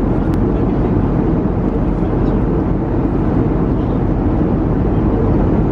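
Steady low cabin noise of a jet airliner heard from inside the passenger cabin, with a single faint click about a third of a second in.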